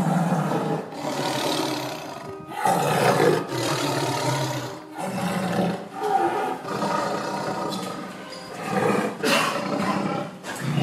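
Big cat roaring and growling in a series of long calls, with short breaks between them.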